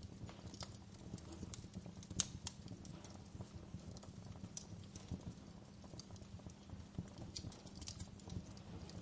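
Wood fire crackling: irregular small pops and snaps over a low steady rumble, with one sharper pop about two seconds in.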